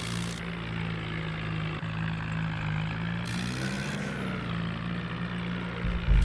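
Swaraj tractor's diesel engine running steadily, its pitch rising a little past the middle as it picks up revs, with a low thump near the end.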